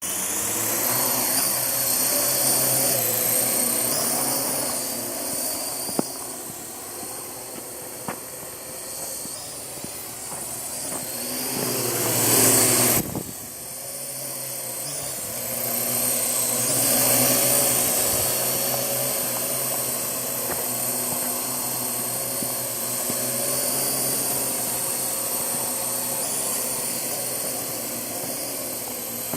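Parrot AR.Drone 2.0 quadcopter's four electric rotors whirring in flight, with a high whine whose pitch and level drift up and down as the motors change speed. About halfway through there is a louder surge that cuts off suddenly, and then the whirring carries on.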